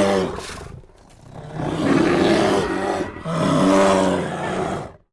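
An animal giving three long, pitched, roaring calls in a row, cut off suddenly near the end.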